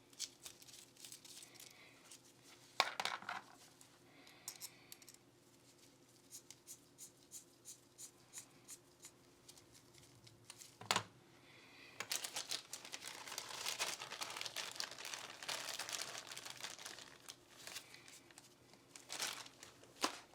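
Hands working on a Glock 19 pistol's parts: a few sharp clicks and knocks of metal and polymer parts being handled, a run of light ticks in the middle, and a longer stretch of rustling and scrubbing, as of a cloth or paper towel wiping the parts, in the second half.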